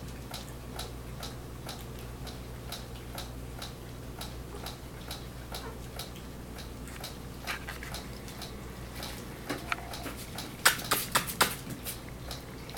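Yorkshire terrier puppies playing: a run of light clicks and taps, about three a second, with a cluster of louder, sharper clicks near the end.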